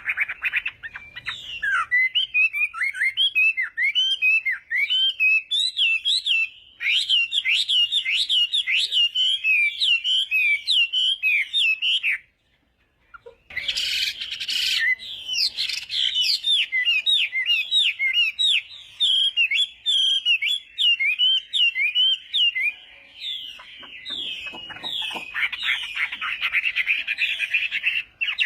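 Chinese hwamei (họa mi) singing a long, loud, varied song of rapid whistled phrases with quick up-and-down pitch sweeps, breaking off for about a second near the middle before carrying on.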